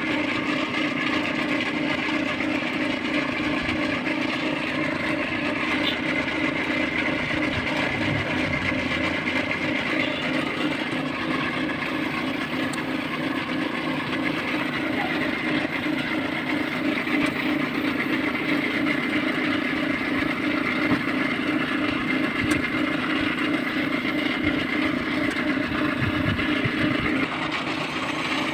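Steady machine hum at an even pitch and level, without breaks.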